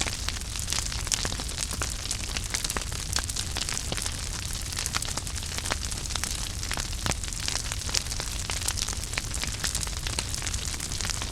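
Wood fire in a fireplace crackling: dense, irregular sharp pops and snaps several times a second over a steady hiss and a low rumble.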